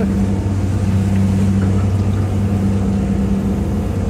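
Hitachi EX200-5 excavator's diesel engine running at a steady speed, a constant low hum.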